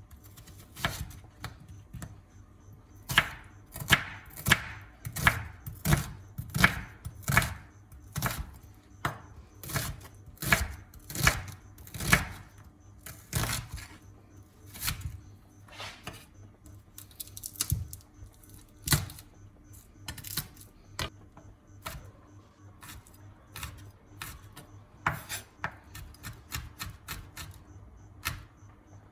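Knife chopping on a cutting board in a series of sharp knocks at about two a second, loudest in the first half and lighter and quicker toward the end.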